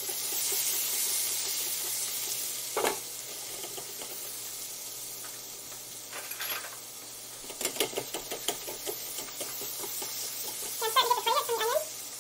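Diced onion sizzling steadily in the hot stainless-steel inner pot of an Instant Pot on sauté, with a spatula stirring and scraping against the pot in a few short clicks and scrapes. Near the end there is a brief wavering voice-like call.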